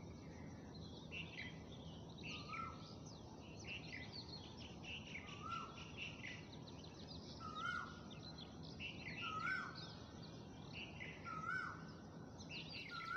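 Faint bird chirping, with one short call that dips in pitch repeating every second or two and quicker chirps above it.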